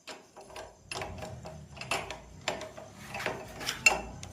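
Wrench tightening the upper steering-stem nut on a motorcycle's steering head, making a run of irregular metallic clicks, about two or three a second. It locks down the steering bearing adjustment once its play has been taken out.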